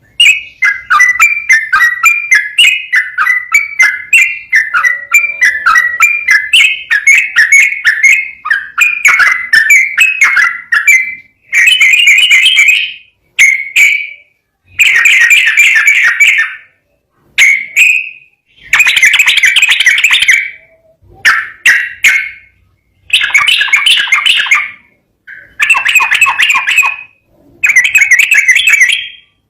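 Yellow-vented bulbul (trucukan) singing: first a fast, continuous run of short chirping notes, then from about a third of the way in a series of loud bubbling phrases, each about a second long, separated by short pauses.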